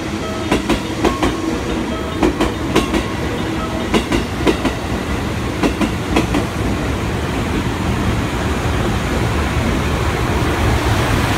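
Train running on rails: wheels clicking irregularly over rail joints with a faint steady tone for the first several seconds, then a steady rumble that slowly grows louder.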